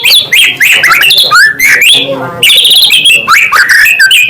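White-rumped shama (murai batu) singing a loud, continuous run of fast, varied whistled phrases and trills.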